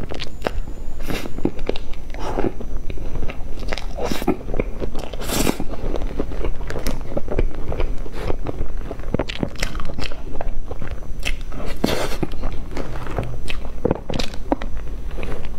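Close-miked chewing and biting of cream-frosted sponge cake, a steady run of sharp, irregular mouth clicks.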